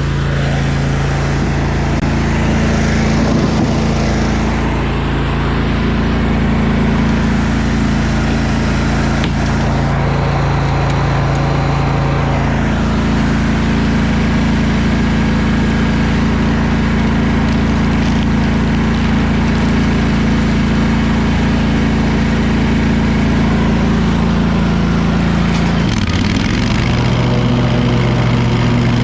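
Stand-on commercial lawn mower's engine running steadily under load. Its pitch dips briefly near the end, then settles at a new steady level.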